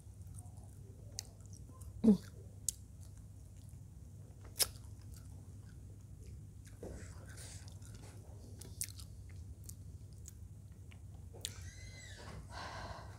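Close-miked mouth sounds of a person chewing fried balado eel with rice: soft wet chewing with scattered sharp clicks and smacks, and one louder mouth sound about two seconds in. The chewing gets busier near the end.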